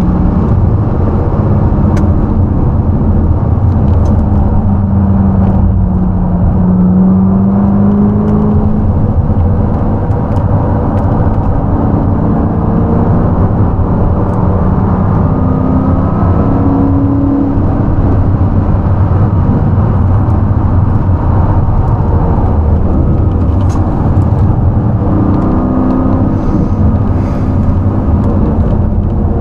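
V8 performance car driven hard on track. A loud, steady engine note rises and falls with the revs over a deep rumble of road and wind noise.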